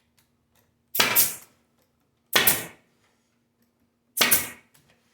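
Stapler firing three staples about a second and a half apart, each a sharp snap that dies away quickly, fastening hardware cloth screen to a wooden beehive bottom board.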